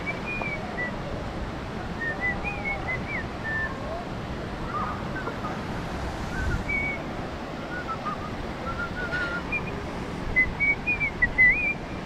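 Birds singing: short whistled chirps and trills from several birds, coming at scattered moments and clustering into a quicker run near the end, over a steady outdoor hiss.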